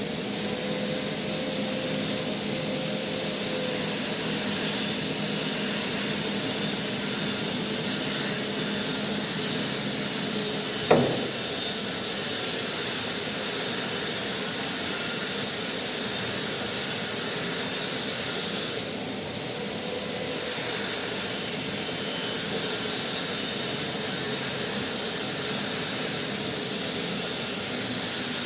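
Manual metal lathe cutting a large bolt thread: a steady rasping scrape of the cutting tool on the metal over the machine's running hum. One sharp knock comes about eleven seconds in, and the scraping eases briefly about nineteen seconds in.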